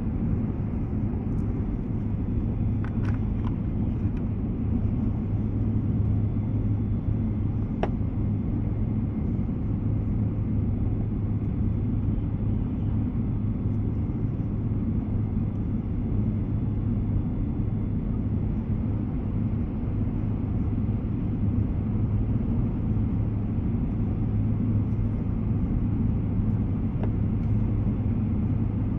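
Steady running sound inside an E2 series Shinkansen car travelling along the line: a constant deep rumble of wheels and track, with a few faint clicks about three and eight seconds in.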